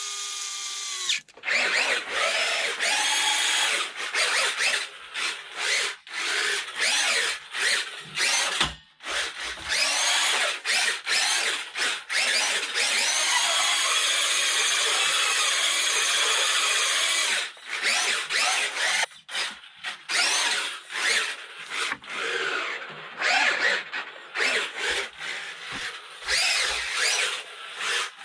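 Electric motor and gearbox of a restored Tamiya Grasshopper RC buggy whirring in many short throttle bursts, rising and falling in pitch, with one longer steady run about halfway through.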